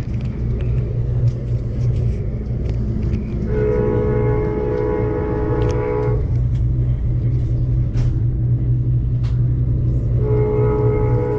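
Amtrak Cascades passenger train running on the rails with a steady low rumble and occasional clicks. The train horn sounds a long chord of several notes from about three and a half to six seconds in, and starts again near the end.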